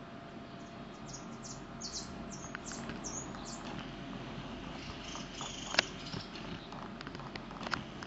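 Small birds nesting in a boot giving several short, high chirps in the first few seconds, over a steady low rumble. A sharp click about six seconds in and another near the end.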